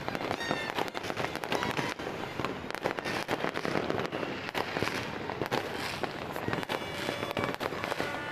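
Fireworks and firecrackers going off in a dense, unbroken series of bangs and crackles, with a few short whistles among them.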